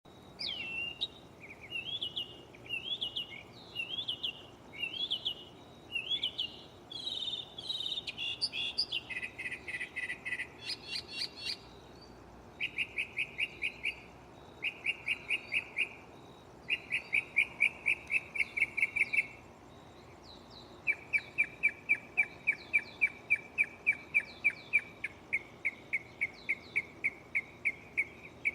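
Northern mockingbird singing, repeating each phrase several times before switching to another. It begins with swooping whistled phrases about once a second. About nine seconds in it switches to rapid trilled phrases delivered in bouts a few seconds long.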